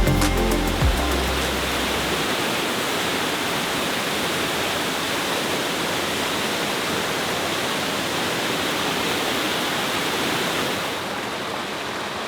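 Waterfall pouring, a steady rush of falling water. Electronic music with a heavy bass beat fades out in the first second or two, and the rush turns a little softer and duller near the end.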